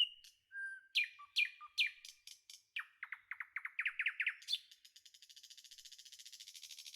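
A songbird singing: a run of clear chirps and slurred whistled notes that quicken, then a fast, high, buzzy trill from about four and a half seconds in.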